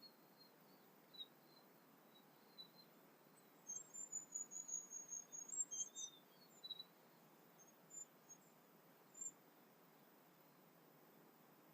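Songbirds calling: scattered faint high chirps, then a quick run of thin, very high notes lasting about two seconds near the middle, followed by two single notes.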